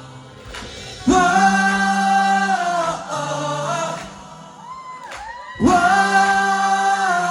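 Male vocal group singing held harmony chords, a cappella in style, through a concert sound system: two long held chords with a quieter stretch and a short sliding tone between them.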